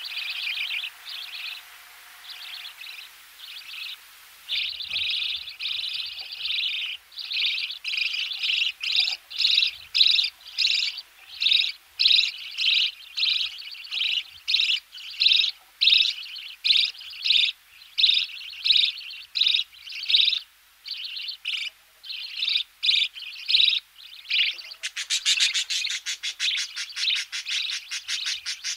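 Budgerigar chicks in the nest giving close-up begging calls while being fed, a long run of repeated calls that turns into a faster, buzzier series near the end. Faint knocking can be heard in the background.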